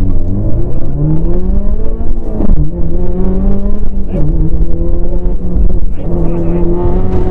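Subaru WRX rally car's turbocharged flat-four engine heard from inside the cabin under hard acceleration: the engine note climbs, then drops sharply at a gear change about two and a half seconds in. It then holds fairly steady, with brief dips at about four and six seconds.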